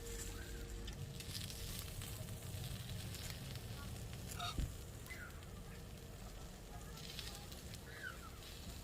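Steady sizzling hiss with scattered crackles, as from beef cooking on a griddle over a campfire. A few short high chirps sound in the second half.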